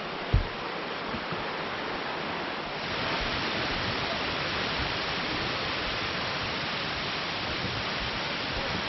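Rushing water of a waterfall, a steady hiss that gets louder about three seconds in. A single low thump sounds just after the start.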